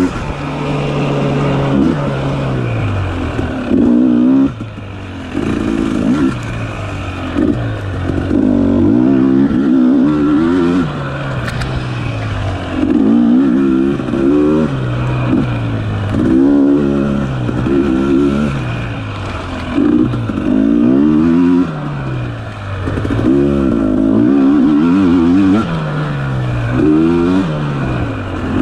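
Dirt bike engine repeatedly revving up and easing off as the rider works the throttle on a tight trail, each surge rising in pitch and falling back every second or two.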